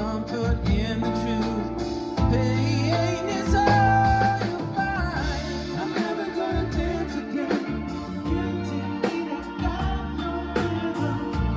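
Live yacht rock cover band playing a song, with a singer over a steady drum beat and bass.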